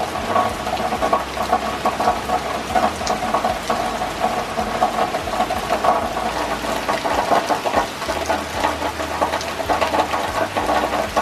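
Heavy rain pouring down, a dense, steady crackling patter of drops hitting the ground and roofs, with a low rumble beneath.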